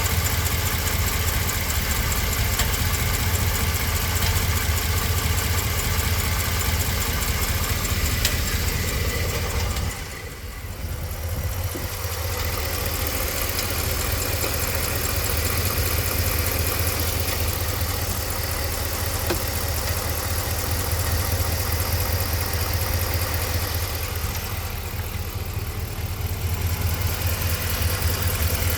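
2014 Ram 1500's 5.7 L Hemi V8 idling steadily with a ticking of unknown cause, which the owner rules out as a stock exhaust manifold leak since BBK shorty headers are fitted. The engine sound drops for a moment about ten seconds in.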